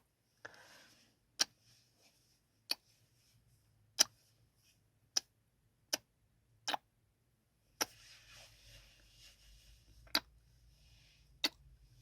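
Close-miked ASMR kissing sounds: about nine sharp lip smacks at uneven intervals of roughly a second, with soft breathy noise between them, most of it in the second half.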